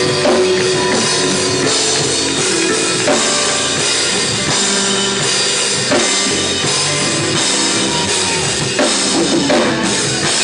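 Live gospel band music: a drum kit, with bass drum and snare, keeps a steady beat under held instrument chords.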